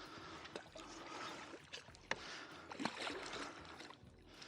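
Light water splashing and trickling beside a kayak as a hooked redfish is brought close to the boat, with a few sharp clicks.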